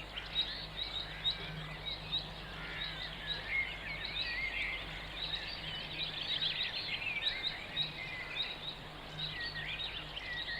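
Several small birds chirping and twittering without a break, many quick high notes overlapping, over a steady low hum.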